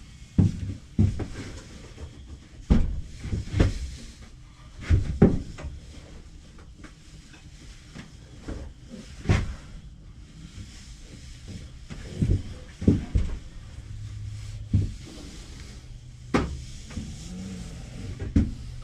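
Irregular knocks and clunks of wooden pieces and tools being handled and set down on a workbench, about fifteen in all, over a faint low hum.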